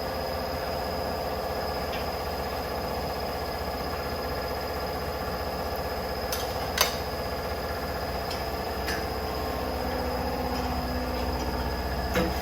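Old car engine idling steadily through a one-off custom exhaust, with a low, even rumble. A single sharp knock comes about halfway through.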